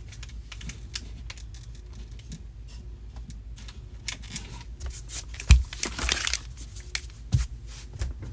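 Small objects being handled and set down, making scattered light clicks and taps. There is a loud knock about five and a half seconds in, a short plastic crinkling just after it, and two more knocks near the end.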